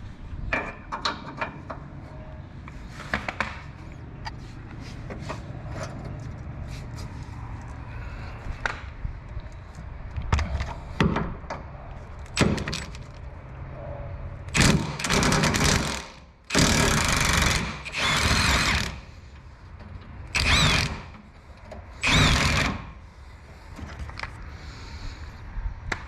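Light clicks and knocks of tools being handled through the first half, then an impact wrench runs in five short bursts on the rear shock absorber's mounting nut and bolt, loosening it.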